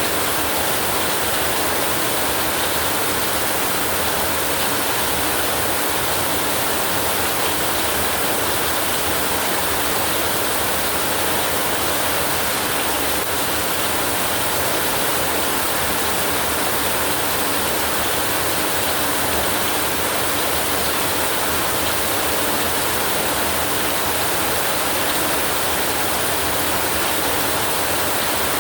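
Steady heavy rain: an even, unbroken hiss of water with no thunder and no single drops standing out.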